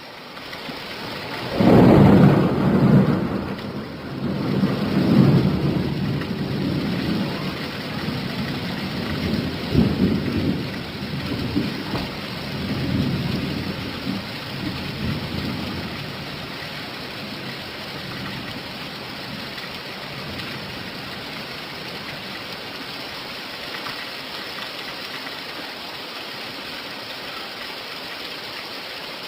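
Steady rain with a clap of thunder about two seconds in, its low rumble rolling on in swells and dying away over the next dozen seconds, leaving the even hiss of rain.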